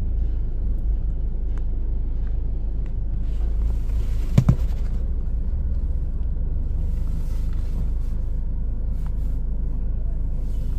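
Steady low rumble of a car engine idling, heard inside the cabin. A sharp double knock comes about four and a half seconds in.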